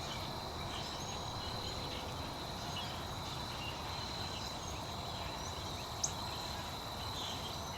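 Outdoor nature ambience: a steady high insect trill over a soft hiss, with scattered faint bird chirps and one short, sharper chirp about six seconds in.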